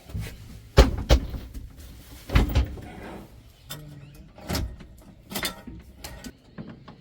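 Irregular knocks and thumps, about a dozen of them, the loudest about a second in and again near the middle.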